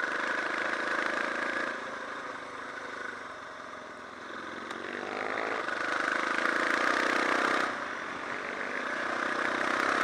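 Suzuki DR650 single-cylinder motorcycle engine running as the bike is ridden, its pitch rising as it accelerates about five seconds in, then easing off suddenly near eight seconds before picking up again.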